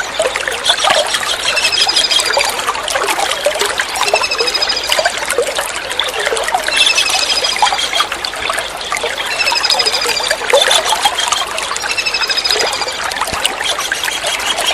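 Water trickling and splashing steadily, over which a small kingfisher (tengkek udang) gives short, high, slightly falling calls about every two to three seconds.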